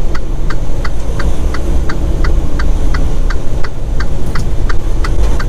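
Turn-signal flasher in a semi truck's cab clicking steadily, about three ticks a second, over the low rumble of the truck's diesel engine.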